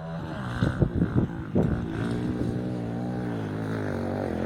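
Dirt bike engine running, its pitch rising and falling gently with the throttle.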